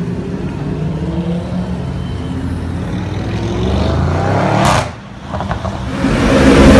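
Supercar engine accelerating hard, its pitch climbing, then cutting off sharply about three-quarters of the way through. A louder run of acceleration starts just before the end.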